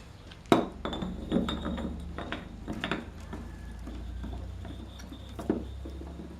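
Metal tools and engine parts clinking and knocking: a sharp knock about half a second in, a run of lighter clinks over the next two seconds, and another knock near the end, over a steady low hum.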